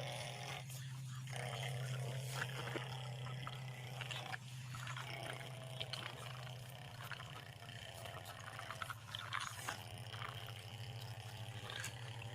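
Small electric motor of a toy mini tractor running with a steady low hum, with scattered small clicks and rattles.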